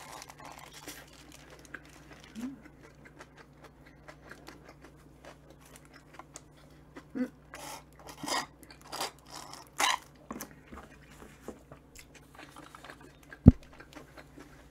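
Close-up chewing of a sandwich, with soft mouth sounds throughout. A little past the middle come several louder short slurps as a drink carton is sipped through a straw, and near the end there is a single sharp thump as the carton is set down on the wooden table.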